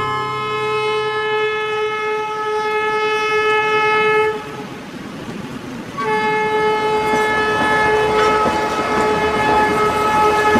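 Narrow-gauge train's horn sounding two long blasts, each about four seconds, with a short break between, over the noise of the moving train.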